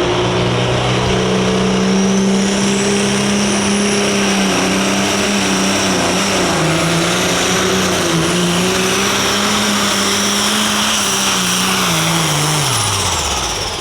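Ford 9600 light pro stock pulling tractor's diesel engine running at full throttle during a pull, with a high whine that climbs over the first few seconds. The engine pitch wavers and dips in the middle as the load pulls it down, then both engine and whine wind down near the end as the pull finishes.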